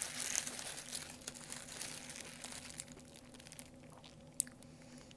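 Paper fast-food packaging crinkling close to the microphone. The crackling is dense for the first couple of seconds, then thins to scattered ticks with one sharp click about four seconds in.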